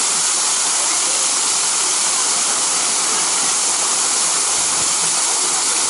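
Steady rush of fast-moving water, an even loud hiss that does not change.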